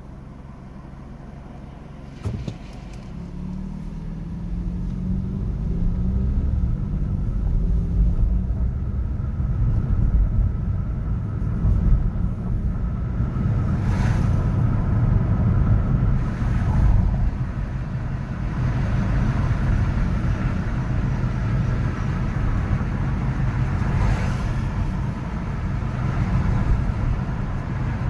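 City road traffic: a steady low rumble of car engines and tyres. A sharp knock comes about two seconds in, then the traffic noise swells over a few seconds and stays louder, with passing vehicles rising and falling now and then.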